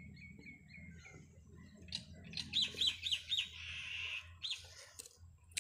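Small birds chirping: a run of short, quick chirps, then louder, higher chirps and a brief buzzy chatter about halfway through.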